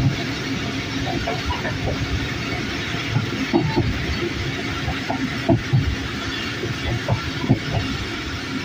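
Moving train heard from aboard: a steady rumble of wheels on the rails, with irregular clicks and knocks of the wheels over rail joints.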